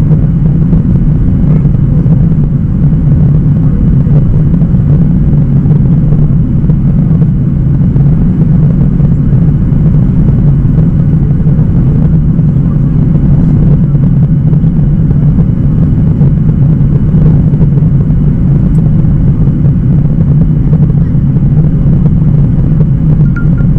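Steady low rumble of a Boeing 737-800's CFM56-7B jet engines and airflow, heard from inside the passenger cabin in flight.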